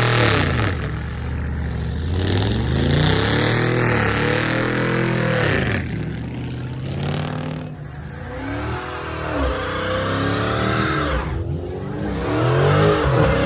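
A car engine revved several times, its pitch climbing and falling with each rev.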